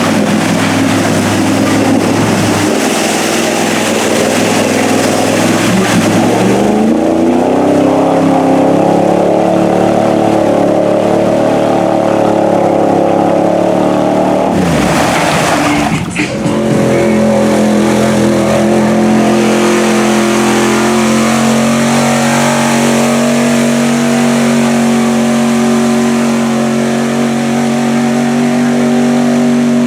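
Mud bog truck's engine held at high revs. The revs climb about six seconds in, fall away sharply for a moment around the middle, then pick up again and hold high and steady.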